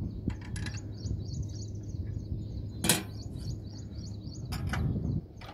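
A bird chirping over and over in a regular series of short high notes, over a steady low hum. A single sharp knock comes about three seconds in.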